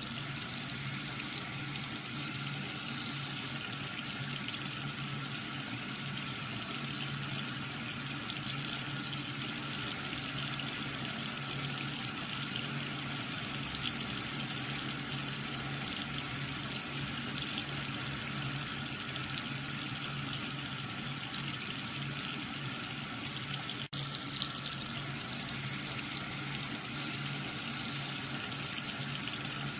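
Water running steadily and splashing.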